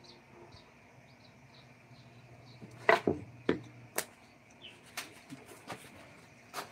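A string of irregular sharp knocks and taps, the loudest few close together about three seconds in, followed by lighter scattered taps.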